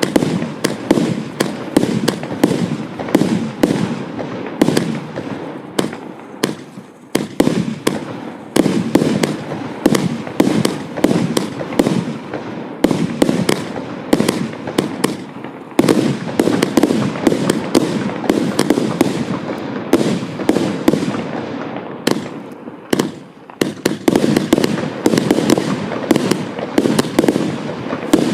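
Primed Pyrotechnics Nitro Thunder firework firing a rapid barrage of bangs, several a second, with brief lulls about seven, thirteen and twenty-two seconds in.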